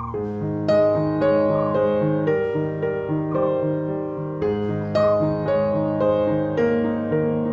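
Background piano music: a gentle melody of steadily repeating notes over a low accompaniment, with fresh note attacks roughly every half second.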